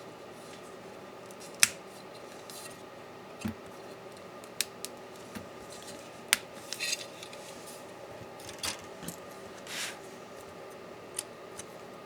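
Scattered sharp clicks and light metallic taps of small tools and parts being handled while a laptop is taken apart, with a couple of short scrapes in the middle. A faint steady hum runs underneath.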